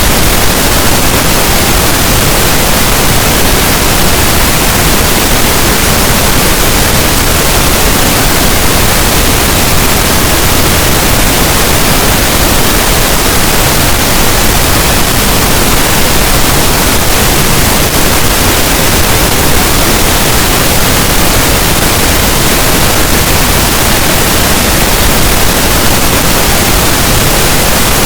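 Continuous pink noise: a steady, even hiss spread across all pitches, with no change in level.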